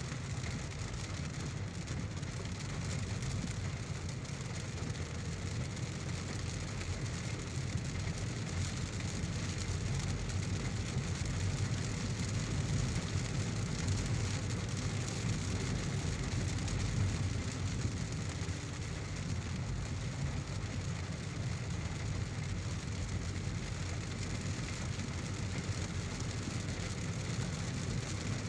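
Heavy rain pattering steadily on a moving car, over a low, even rumble of the engine and tyres on the road.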